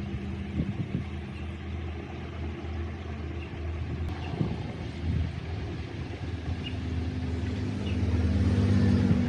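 Motorcycle engine running steadily, getting louder in the last couple of seconds.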